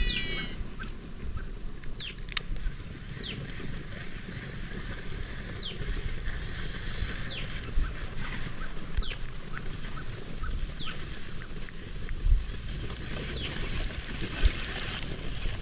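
Small birds calling with scattered short chirps that fall in pitch, over a steady low rumble.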